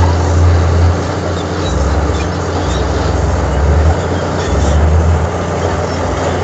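Heavy diesel engine of earthmoving machinery running under changing load: a low engine drone that drops about a second in and swells again around the middle.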